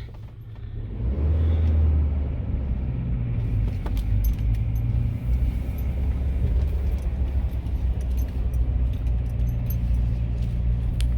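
Tracker's engine running with a low, steady rumble that swells about a second in and then holds, with a few light clicks and rattles over it.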